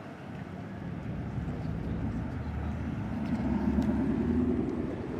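A motor vehicle passing close by: its engine grows louder to a peak about three to four seconds in, then eases off.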